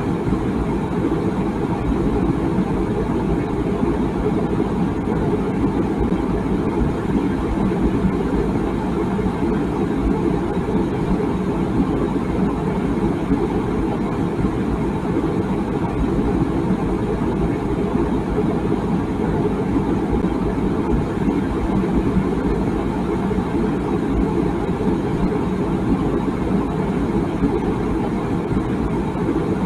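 Water boiling in a tea kettle: a steady low rumble with no whistle.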